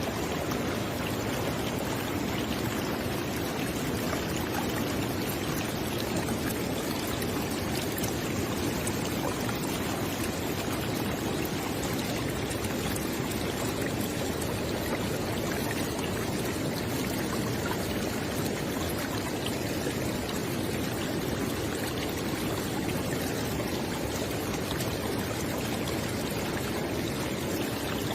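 River water flowing steadily, a continuous rushing with no breaks.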